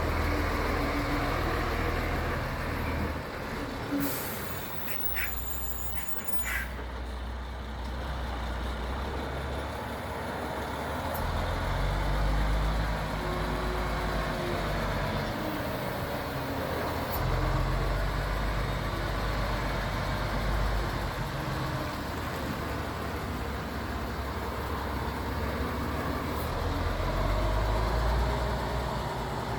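MAN TGX truck's diesel engine running, its note rising and falling several times. A brief hiss of air comes about four seconds in.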